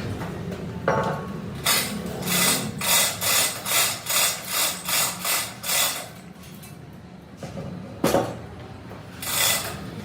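Hand tool scraping on metal in quick, even back-and-forth strokes, about two and a half a second. The strokes pause for a few seconds, then start again near the end, over a steady low workshop hum.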